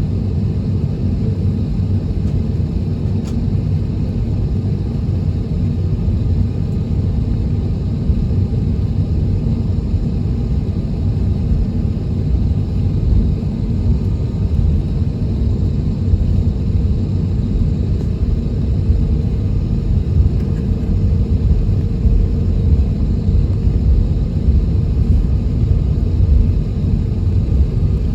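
Steady low rumble inside the cabin of an Airbus A321neo taxiing, from its engines at taxi power and its wheels rolling on the taxiway.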